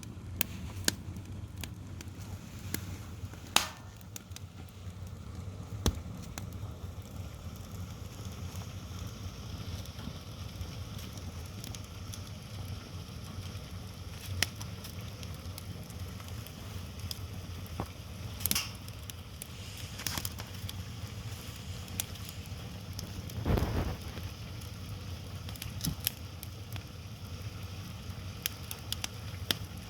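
Wood fire burning, crackling with irregular sharp pops over a steady low rumble, and a couple of louder bursts in the second half.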